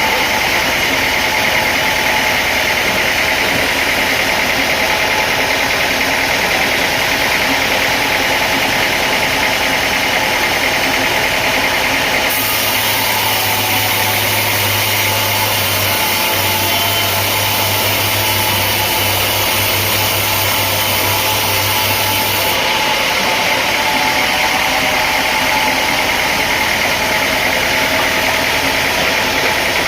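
Sawmill machinery running steadily with a loud engine-like hum. The sound changes abruptly about twelve seconds in and changes back about ten seconds later.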